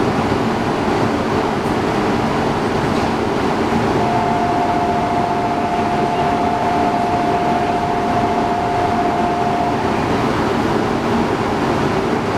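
Steady running noise of an E2 series Shinkansen train standing at a platform. Partway through, a steady two-note electronic tone sounds for about six seconds, then stops.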